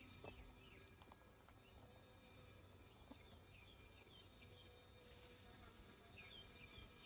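Near silence: faint outdoor background with soft, repeated bird chirps and a faint hum of honeybees around an open hive.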